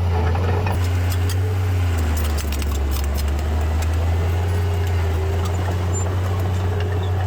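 Heavy diesel engine of earthmoving machinery running with a steady, deep drone. Its pitch drops slightly about two seconds in as the load changes. Scattered sharp metallic clicks and rattles are heard over it during the first few seconds.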